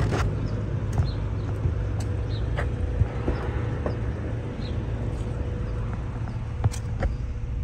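Honda B18C 1.8-litre four-cylinder VTEC engine idling through an aftermarket exhaust: a steady low rumble, with a few light clicks.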